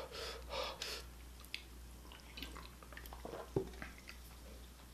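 A person chewing a mouthful of spicy stir-fried octopus close to the microphone: soft wet squishing with scattered small clicks, one sharper click a little past halfway.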